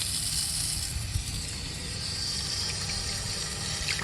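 Steady rush of water spraying and gushing through an RV water heater tank being flushed with a rinsing wand, washing sediment out of the drain opening.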